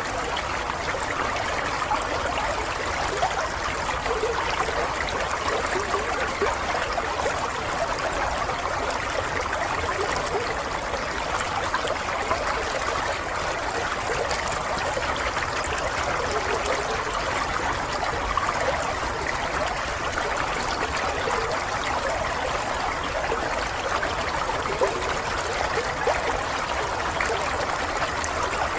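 Water running steadily over stones in a small stream, a continuous babbling trickle without pauses.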